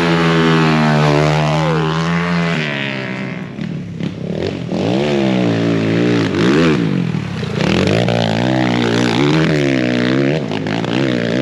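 Pit bike engines revving hard as riders race past, the pitch climbing and dropping over and over as they accelerate, shift and back off.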